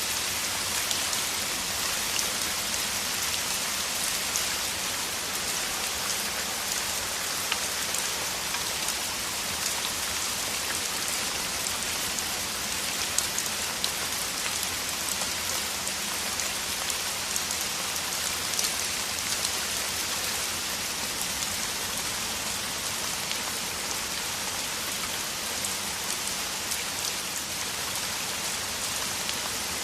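Heavy rain falling steadily, a dense hiss with many fine drop ticks.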